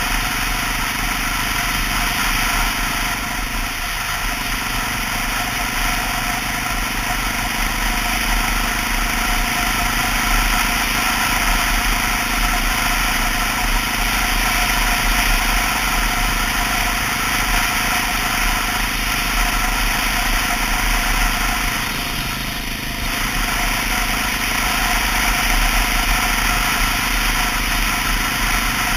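Steady engine noise from a 2002 Honda XR650L's air-cooled single-cylinder four-stroke as the motorcycle runs, with a dense rushing hiss over it.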